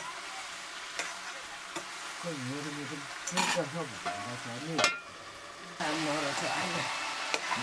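Chicken curry sizzling and frying in a pan while it is stirred, with a few sharp knocks about three and a half and five seconds in. Voices can be heard now and then in the background.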